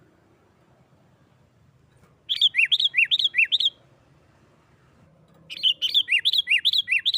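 Sooty-headed bulbul (kutilang) giving its excited, fighting-style 'nggaruda' call. There are two rapid runs of sharp notes, alternating high and lower, several a second. The first comes after a couple of seconds of quiet, and the second starts about two seconds later.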